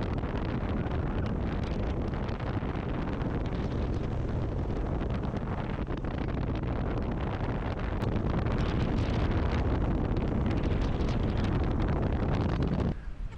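Steady wind rush buffeting the microphone while a boat runs at speed across the water.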